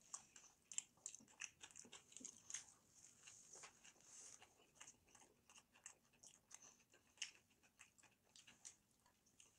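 Faint chewing and mouth sounds of two people eating burgers: soft irregular smacks, clicks and small crunches.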